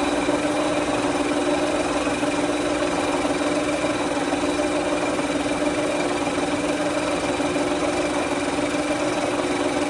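Machine tool running steadily, a constant mechanical hum with a steady pitched whine over it.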